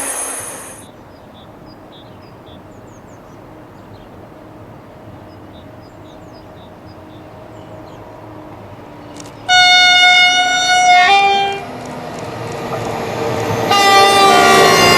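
Passing SNCF train: high-pitched wheel squeal dies away in the first second, then a quieter stretch of running noise. About nine and a half seconds in, the train's horn sounds one long note of about a second and a half, followed by a brief second note. Shrill wheel squeal, typical of flanges on a tight curve, rises again near the end.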